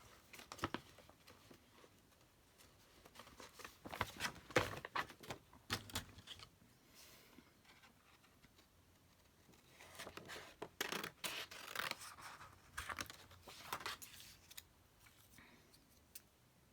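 Paper being handled: short crisp rustles and scratches in two spells, about four seconds in and again from about ten to fourteen seconds.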